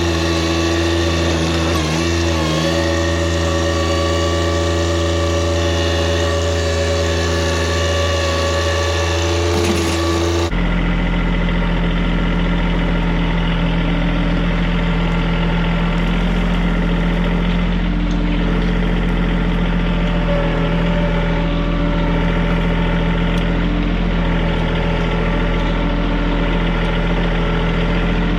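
Compact diesel tractor engine running steadily under work. About ten seconds in the sound changes abruptly to a lower, deeper engine note.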